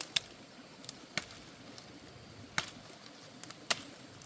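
A blade chopping: about seven sharp, irregularly spaced strikes, three of them louder than the rest.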